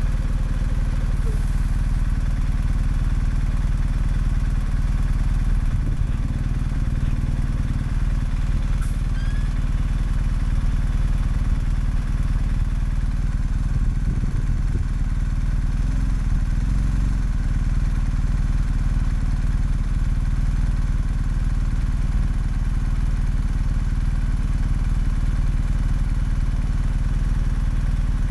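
BMW R1250GS Adventure's boxer-twin engine with an Akrapovic exhaust running steadily, heard from the rider's seat.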